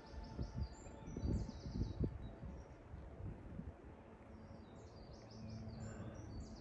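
A songbird singing short phrases of quickly repeated high notes, twice, over a low rumble on the microphone.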